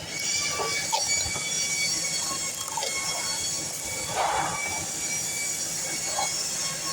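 DeWalt miter saw blade cutting through metal stock: a steady high-pitched screech of several ringing tones that starts suddenly, with a few light knocks.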